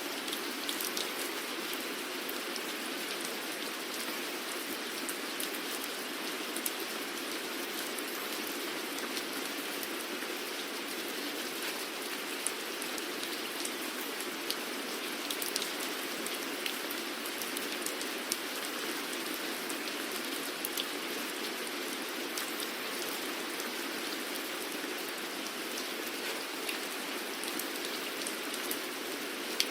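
Steady rain falling, an even hiss with many individual drops pattering and ticking sharply on a surface.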